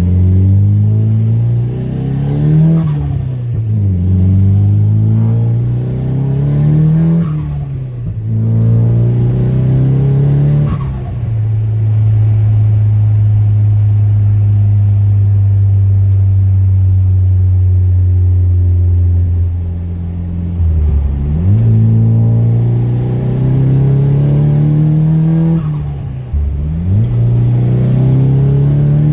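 Nissan S15 Silvia's turbocharged SR20DET four-cylinder engine pulling hard under boost: revs climb and drop sharply at each gear change, three times in the first ten seconds, then hold steady for about nine seconds of cruising before two more climbs through the gears near the end.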